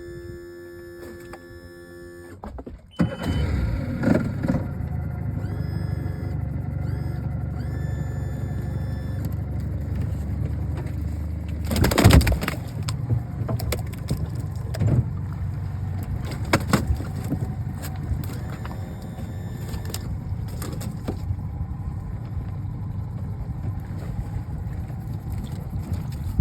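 Boat motor running steadily, coming up loud about three seconds in, with a sharp knock near the middle.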